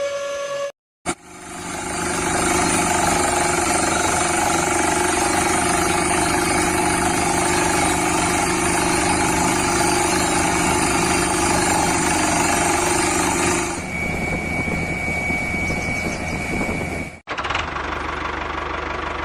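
A small motor running steadily, heard across several edited clips. About 14 seconds in the sound changes and a steady high tone runs with it for about three seconds before a cut.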